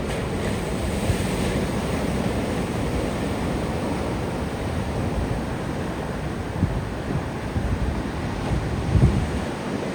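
Ocean surf washing onto a beach in a steady hiss, with sea wind buffeting the phone's microphone in low gusts, one stronger gust about nine seconds in.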